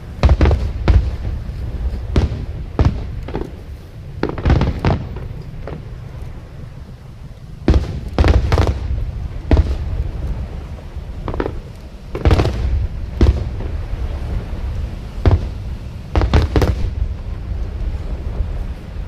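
Aerial fireworks bursting in an irregular series of sharp bangs, some coming in quick clusters, over a continuous low rumble.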